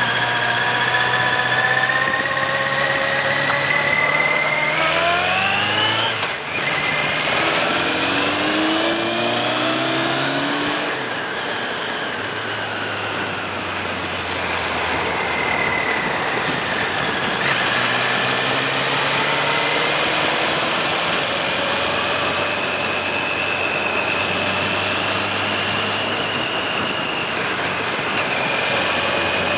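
Suzuki GSX1400's inline-four engine pulling up a mountain road, revs rising and falling through the bends with a drop about six seconds in. It then holds a fairly steady pitch for the last ten seconds, with wind noise rushing over the microphone throughout.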